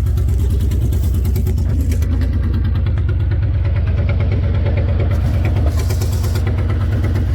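Ford 2.9-litre V6 of a 1987 Bronco II running steadily just after a cold start in freezing weather.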